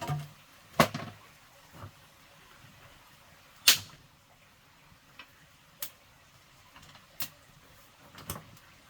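Sharp knocks of hard objects striking, spaced irregularly a second or two apart; the loudest comes about four seconds in.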